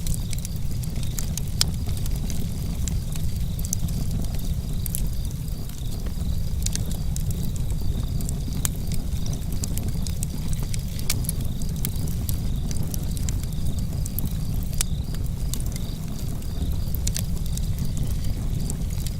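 Campfire crackling, with frequent sharp pops and snaps scattered irregularly over a steady low rumble.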